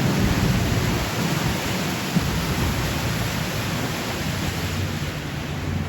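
Steady rushing noise aboard a moving tour boat, with wind and water and a low engine hum underneath.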